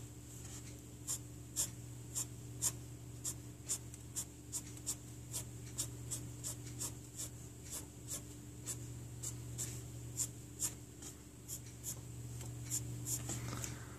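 Pencil drawing on paper in short quick strokes, about two to three scratches a second, over a steady low hum.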